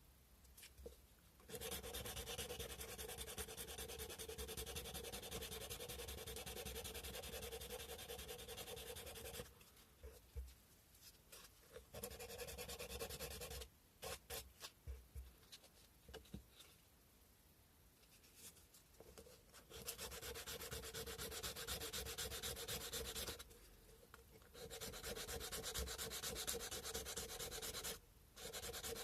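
Cow bone fish hook being hand-sanded with sandpaper: quick back-and-forth rubbing strokes in long runs, broken by a few seconds of near pause with only scattered short strokes around the middle.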